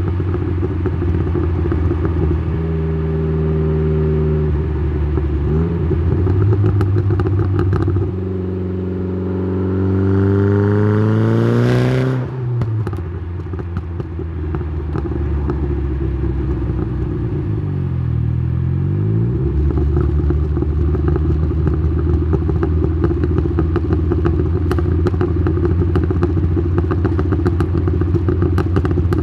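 Exhaust of a tuned Saab 9-3's turbocharged B204 2.0-litre four-cylinder, heard close to the exhaust. It drones steadily, then about eight seconds in it accelerates with rising pitch. About twelve seconds in, a brief sharp hiss comes as the revs drop. A short dip and rise in pitch comes near eighteen seconds, then it runs steadily again.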